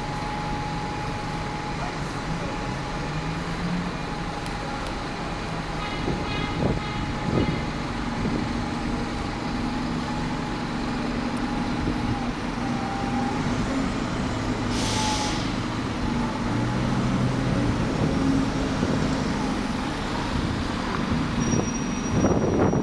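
Diesel bus engine running, with a short hiss of released air about fifteen seconds in.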